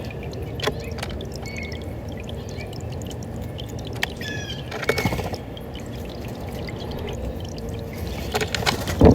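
Steady rush of running water, with a few short bird chirps over it and a brief knock near the end.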